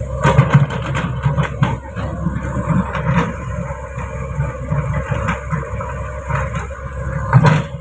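Truck engine running, with irregular knocks and rattles and a loud knock near the end.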